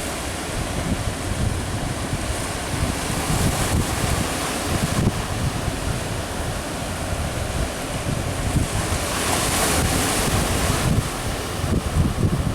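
Surf breaking, with strong wind buffeting the microphone. A larger wave washes in loudest about nine seconds in.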